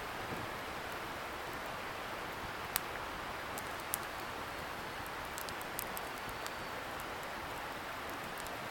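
Wood campfire crackling, with scattered sharp pops, the loudest about three and four seconds in, over a steady rushing hiss from a distant river.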